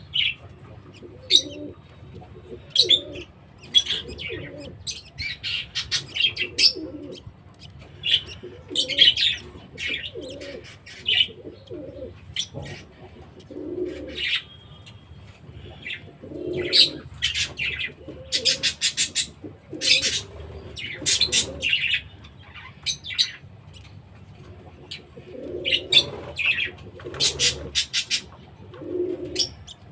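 Budgerigars chirping and chattering in short high bursts, over low, repeated cooing from doves.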